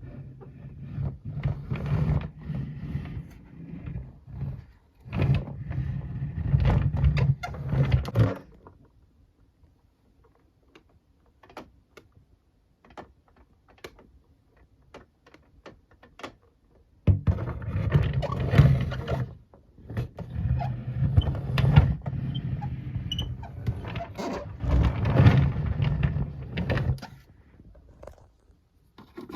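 Plastic toy parts being handled, knocked and clicked together, in two long spells of busy clattering separated by a quieter stretch with only scattered small clicks.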